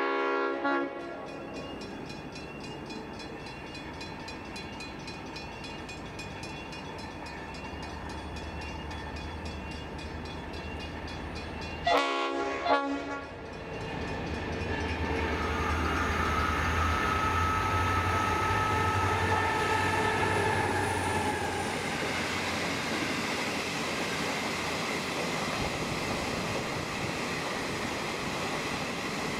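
Freight train horn sounding a short blast, then two more short blasts about twelve seconds in as the train nears. The diesel locomotive's engine rumble then builds and passes, followed by the steady rolling rumble of hopper wagons going by.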